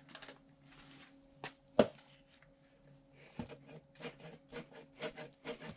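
Light clicks and knocks from handling a suspension bicycle seatpost being worked on, with one sharper click about two seconds in and a run of soft taps near the end. No squeak is heard.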